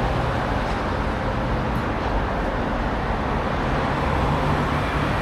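Steady road-vehicle noise: a low engine and tyre rumble under an even hiss.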